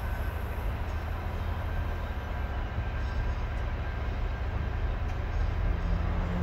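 Loaded ballast train of open wagons rolling slowly behind a Freightliner diesel locomotive: a steady low rumble of wheels and engine.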